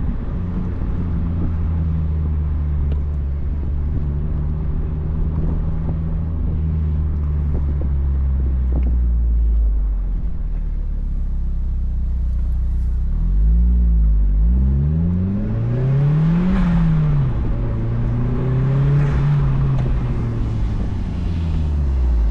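Mazdaspeed Miata's turbocharged 1.8-litre four-cylinder engine and cat-back exhaust, heard from inside the car while driving. It holds a steady note for about ten seconds, then the revs climb and drop several times.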